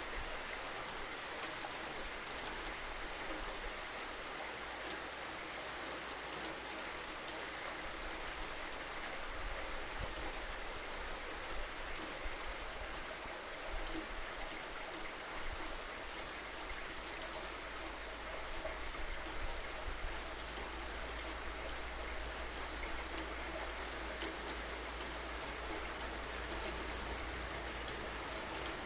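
Steady rainfall: a continuous hiss with scattered drops pattering on a surface, over a steady low rumble.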